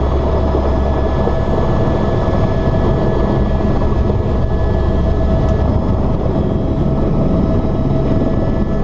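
Tour helicopter's rotor and turbine engine heard from inside the cabin during the landing: a loud, steady drone with a thin steady whine over it.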